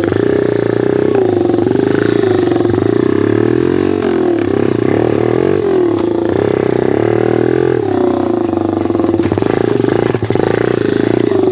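Pit bike engine running under way on a dirt trail, its note mostly steady and dipping then climbing again a few times as the throttle is eased and reopened.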